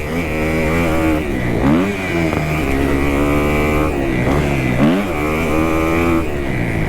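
2018 Kawasaki KX250F's single-cylinder four-stroke engine revving hard under throttle. The revs drop and climb back twice, about two seconds in and about five seconds in.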